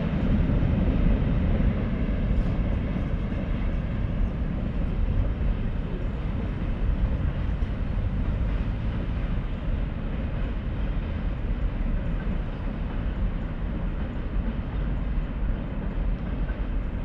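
Low, steady rumble of a train moving away down the line, a little stronger in the first couple of seconds.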